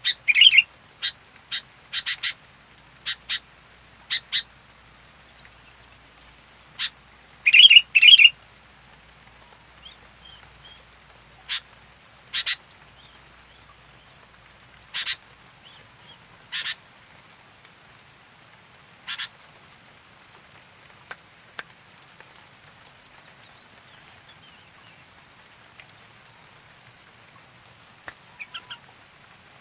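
Sooty-headed bulbul (kutilang) calling in short, sharp chirps and scattered bursts, loudest in a quick cluster about eight seconds in. The calls thin out to a long lull with a few faint chirps near the end.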